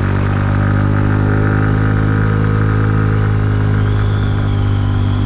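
Kymco People 250 scooter's single-cylinder four-stroke engine running at a steady speed under way, its exhaust leaks freshly sealed with JB Weld high-heat epoxy, so it sounds quiet. A faint high whine joins about four seconds in.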